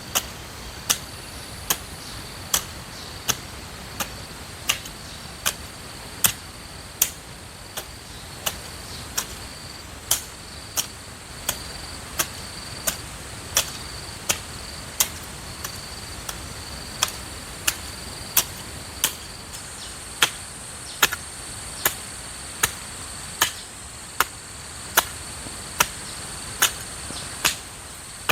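A hoe striking the ground in a steady digging rhythm, one blow about every 0.8 seconds, over a steady high-pitched drone of insects.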